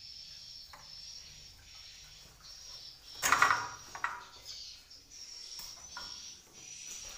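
High, steady twittering of swiftlet calls inside the nest house, breaking off and resuming every second or so. About three seconds in comes a short, loud scraping clatter.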